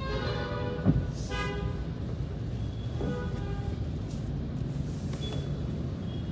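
Car horns honking in slow traffic, heard from inside a car over its steady low cabin rumble: three honks in the first few seconds, the first about a second long and the other two short.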